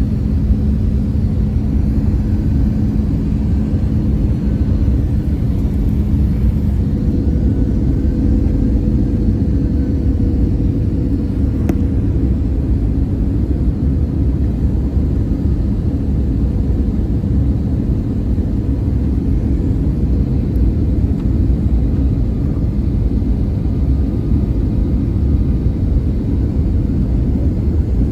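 Airbus A320-200 airliner in flight: a steady, loud low rumble of jet engines and airflow. A faint steady hum fades out about ten seconds in.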